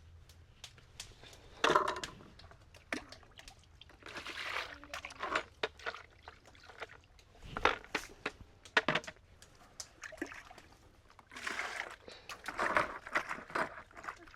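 Water and utensils being handled: irregular knocks and clinks, with brief stretches of pouring or sloshing.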